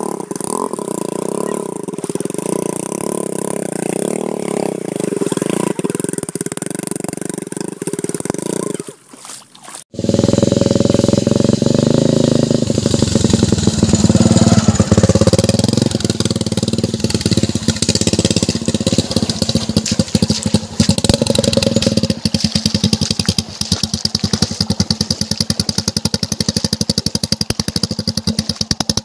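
Motorcycle engine running while being ridden, its pitch rising and falling with the throttle. The sound cuts out briefly about a third of the way in, then resumes with a faster pulsing beat.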